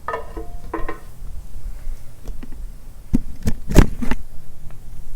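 Tools and engine parts being handled during an engine teardown: a series of sharp clicks and knocks, with the loudest clank about four seconds in.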